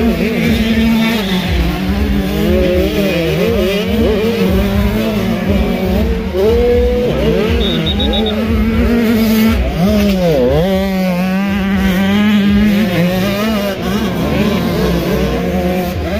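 Several motocross bikes running on the track, their engines revving up and down, each pitch rising and falling as the riders work the throttle, over a steady low engine note.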